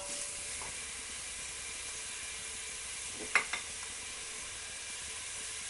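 Chicken frying in oil with garlic and chilli seeds in a pan: a steady sizzle, with one short sharp click a little after halfway.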